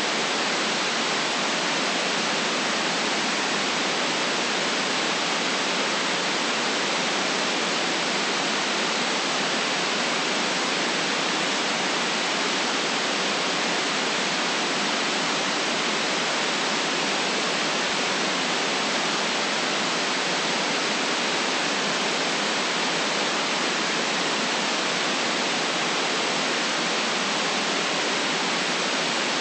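Steady synthetic noise, an even, constant hiss with no changes or separate sounds.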